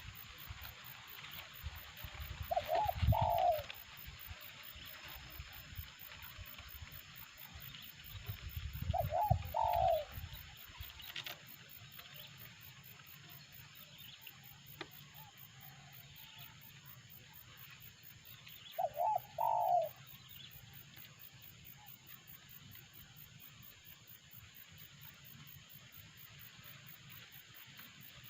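Spotted dove (terkukur) cooing: three short phrases, about six and ten seconds apart. A low rumble sits under the first two.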